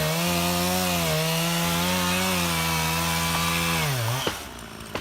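Chainsaw running at a steady high speed, cutting wood. About four seconds in, its pitch falls and the sound drops away.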